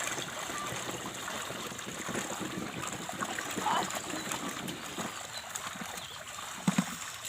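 Water trickling and splashing, with a short thump near the end.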